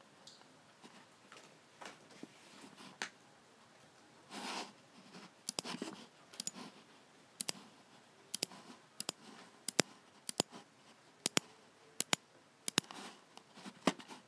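Logicool G7 computer mouse buttons clicking at an irregular pace, many clicks in close pairs, coming more often in the second half. Softer scuffs come first, with a brief rustle about four seconds in.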